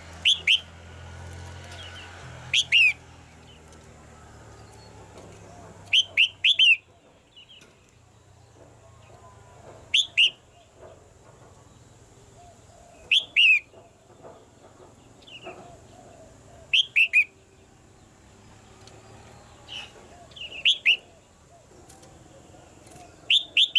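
Red-whiskered bulbul calling: short loud phrases of two or three quick falling notes, repeated about every three to four seconds.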